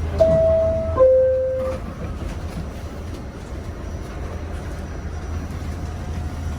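New York City subway door chime: two steady tones, the second lower than the first, about a second in, over the low rumble of the subway train.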